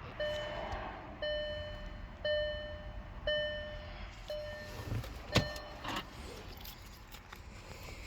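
Car warning chime sounding about once a second, five times, then a single sharp click a little past the middle, followed by a couple of fainter knocks.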